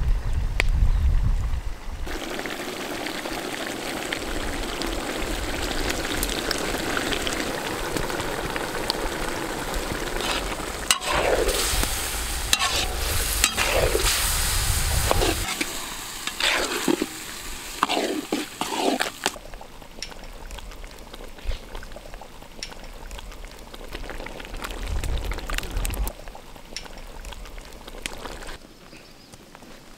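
Chicken and tomato sauce sizzling in a large wok over a wood fire, with tomato ketchup poured in at the start. Partway through, a ladle stirs it in a run of separate scraping strokes against the wok, and the sizzle is quieter after that.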